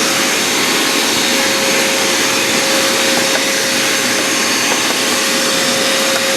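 Hyper Tough wet/dry vacuum cleaner running steadily, an even rushing of air with a constant whining tone, sucking dust and dirt out of an air conditioning unit.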